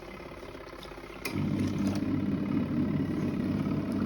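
Small Adler portable washing machine's motor switching on with a click about a second in, then running with a steady hum as the wash starts.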